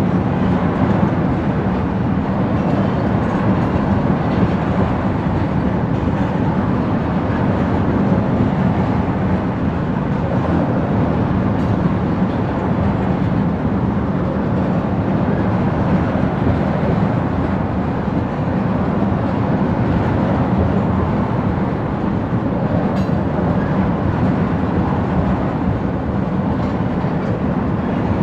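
Railroad tank cars of a freight oil train rolling steadily past: a continuous rumble of steel wheels on rail with a few faint clicks.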